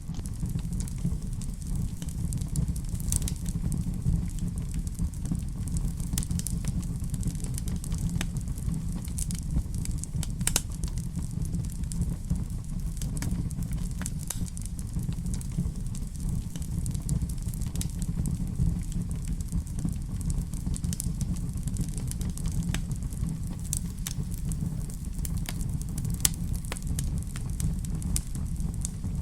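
Wood fire crackling in a fireplace: a steady low rumble with scattered sharp pops and snaps. The loudest pops come about ten seconds in and again near the end.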